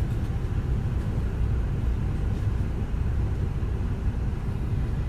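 Off-road vehicle driving slowly on a dirt trail: a steady low rumble of engine and tyres.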